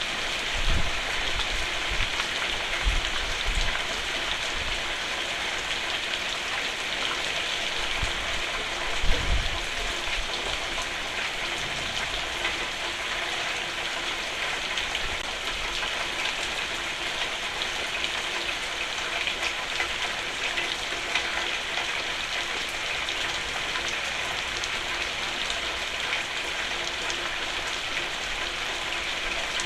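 Steady rain falling on a roof, a dense even patter. A few short low thumps break in about a second in, around three seconds in, and again at about eight to nine seconds, the last being the loudest.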